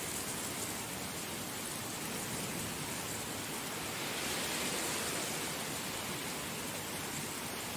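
Heavy rain falling steadily, swelling slightly about halfway through.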